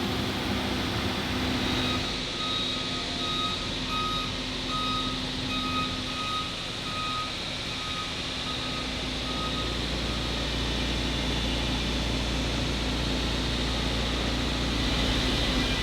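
Electronic warning beeper sounding a steady series of short beeps, a bit under two a second, from about two seconds in until about halfway through, over a steady machinery hum.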